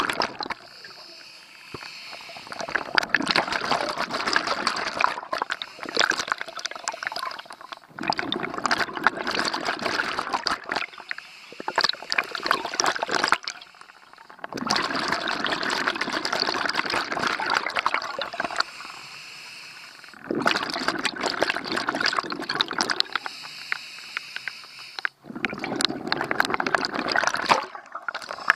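Scuba diver breathing through a regulator underwater: bursts of bubbling exhaust every few seconds, each lasting two to four seconds, with quieter inhalations between them.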